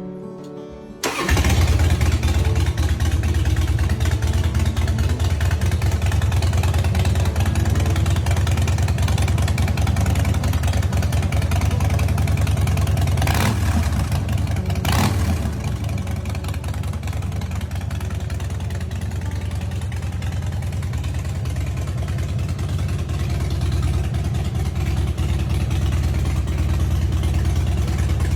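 Harley-Davidson Softail Deuce V-twin engine running steadily, its sound coming in abruptly about a second in. Two brief sharp sounds break in about halfway through.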